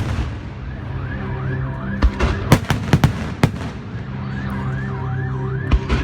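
Festival fireworks and firecrackers going off close by in sharp, scattered bangs, with a burst of several between about two and three and a half seconds in and another bang near the end. Between the bangs a siren-like alarm tone warbles quickly up and down, about three times a second.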